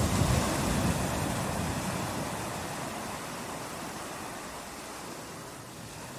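Sea surf washing on a beach: a wave surges in near the start and the rush of water slowly fades as it draws back.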